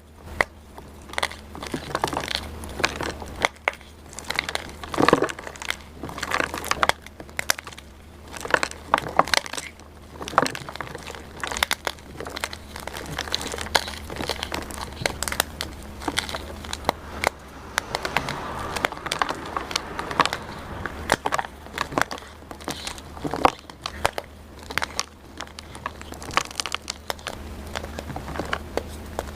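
Blocks of dyed gym chalk being crushed and crumbled, giving a steady run of irregular, crunchy crackles and snaps.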